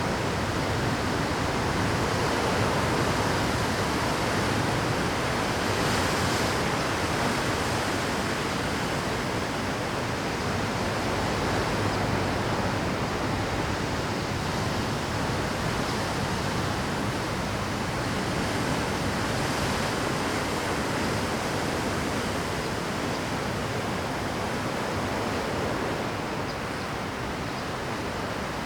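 Rough Pacific surf breaking continuously on a rocky shore: a dense, steady wash of water noise that swells and eases slightly, without separate crashes standing out.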